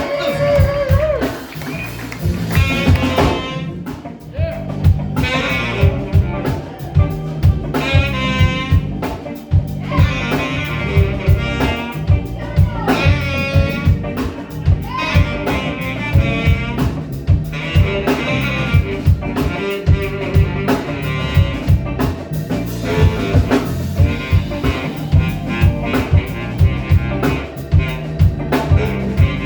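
Live band playing a blues-jazz number: a saxophone carries the melody over drum kit and bass, with a steady beat.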